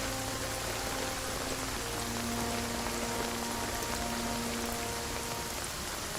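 Steady hiss of rain under soft background music with long held notes.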